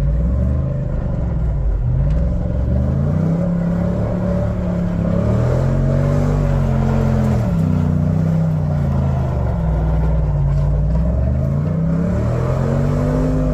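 Ford truck engine revving hard, its pitch climbing and dropping again in about half a dozen swells, with a steady higher hum running over it.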